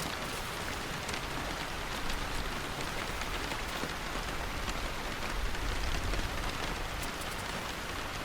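Steady rain falling on a surface, with scattered drop ticks and a brief low rumble about five and a half seconds in.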